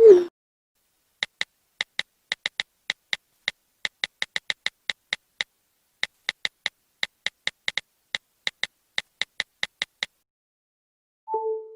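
A run of sharp, crisp clicks at an uneven pace, about three a second, with a short pause midway. It is framed by a short falling tone right at the start and a brief tone that begins near the end.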